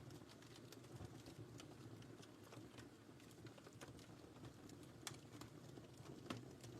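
Quiet wood fire crackling: scattered sharp pops and snaps over a low steady rumble of the flames, with two louder pops about five and six seconds in.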